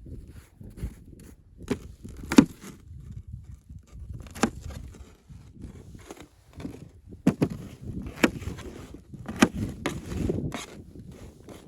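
Irregular sharp knocks and scrapes of wood being handled, about one every second or two, the loudest about two seconds in.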